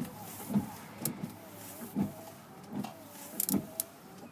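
Windshield wipers of a Chevrolet Express van running, knocking softly at each end of their sweep while the wiper motor gives a faint whine that dips and rises with each stroke.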